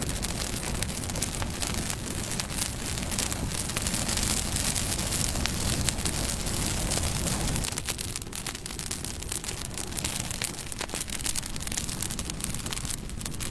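Bonfire burning: a steady low roar of flames with dense, irregular crackling and sharp pops of burning wood.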